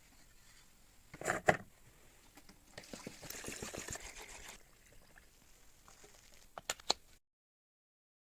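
Workshop handling sounds: a few sharp knocks and clicks, and a short hiss like liquid being poured or sprayed about three seconds in, before the sound cuts out to silence.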